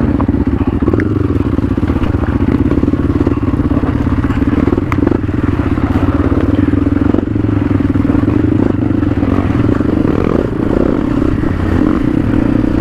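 Motorcycle engine running steadily while riding, with a few short knocks and rattles.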